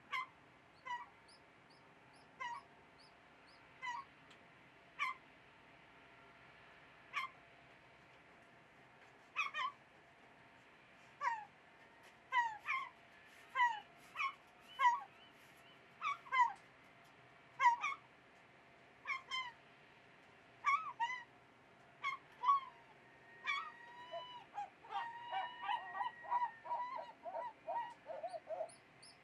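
Birds calling: short calls that fall in pitch, repeated at irregular intervals over a faint steady background. The calls come more often as it goes on and end in a rapid run of calls near the end.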